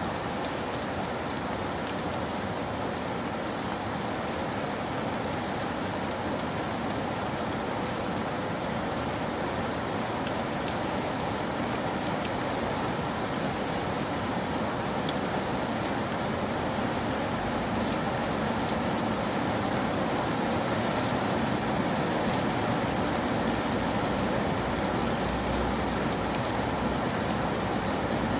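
Steady rain falling on a surface, with many fine raindrop patters.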